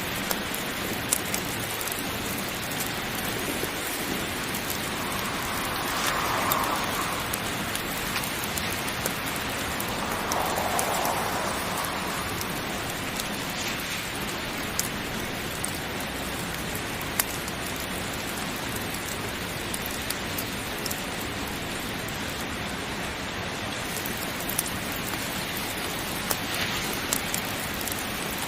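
Heavy rain falling steadily, with scattered sharp clicks and a couple of brief swells in the downpour.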